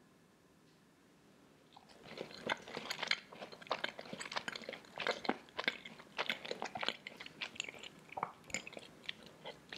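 Someone chewing a chocolate chip cookie that has just been dipped in milk, close to the microphone: irregular crunching bites that start about two seconds in after a near-silent opening.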